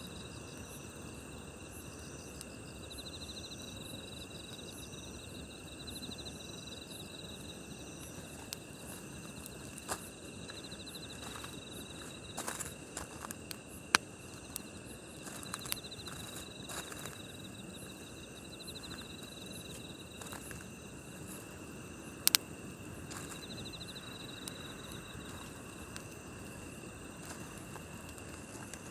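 Night-time crickets and other grass insects chirping on and on in several high, steady tones with pulsing trills, over the low hiss of a campfire. A few sharp crackles of burning wood, the loudest about fourteen and twenty-two seconds in.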